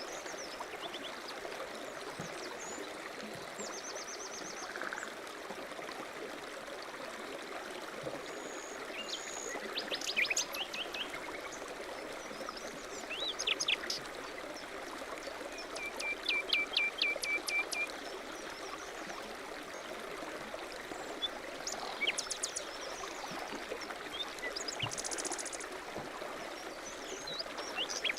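Mountain stream running steadily, with songbirds chirping and giving short trills over it every few seconds.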